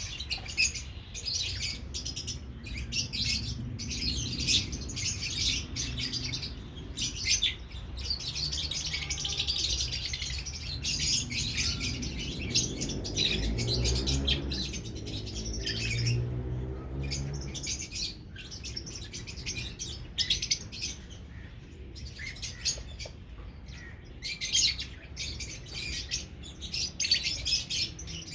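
A flock of albino and lutino lovebirds chirping rapidly and continuously, with a low rumble underneath for a few seconds in the middle.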